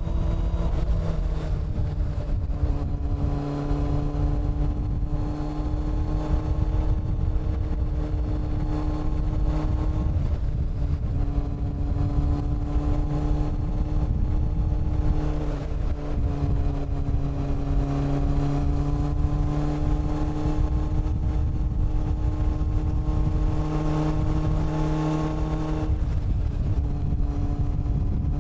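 Honda CB400 Super Four's inline-four engine and exhaust while riding at a fairly steady speed, its note dipping and picking up again a few times (about a second in, around halfway through and near the end), over a low wind rumble.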